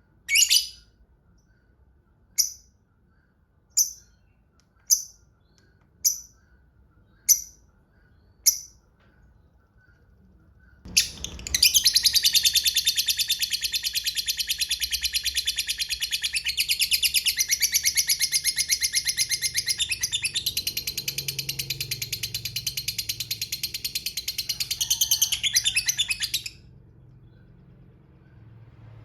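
Lovebird calling: seven short sharp single chirps about a second apart, then a long, fast, rattling chatter that runs for about fifteen seconds before stopping abruptly, the prized long 'ngekek' of a lovebird.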